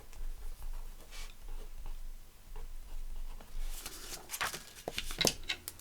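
Pen scratching on paper in short strokes, with light rustling of paper being handled.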